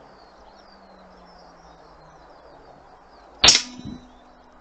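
A single shot from an AP900 airgun about three and a half seconds in: a sharp crack with a short ring, followed half a second later by a fainter knock.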